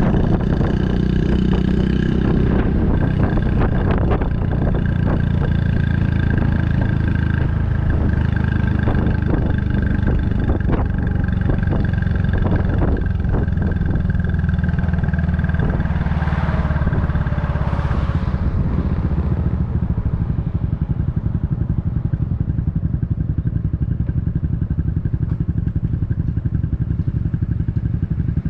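Honda Super Cub 110's single-cylinder four-stroke engine running through an aftermarket Kitaco mini Caborn muffler while riding. About two-thirds of the way through, the note drops to a lower, rapidly pulsing sound.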